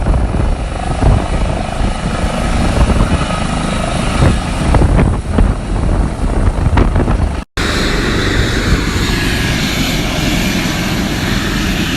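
Helicopter coming down onto a helipad: loud rotor and turbine noise with a heavy, pulsing low thud. The sound drops out for an instant a little past halfway, then goes on steadier.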